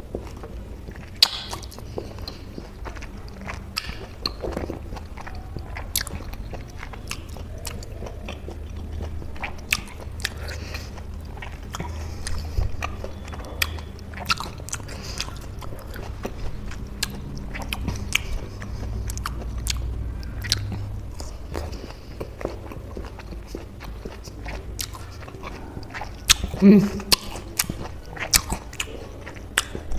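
Close-miked chewing of juicy peeled orange segments, with a steady run of wet mouth clicks and smacks. A short hummed sound from the eater near the end is the loudest moment.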